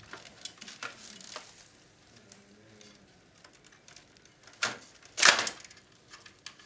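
Hands handling the plastic and metal parts of a radio cassette recorder being taken apart: a few light clicks and taps, then two short scraping rustles about four and a half and five seconds in, the second the loudest.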